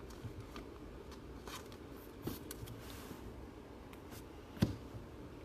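Quiet rustling and light clicks of trading cards being handled and flipped through by hand, with a louder soft thump about four and a half seconds in.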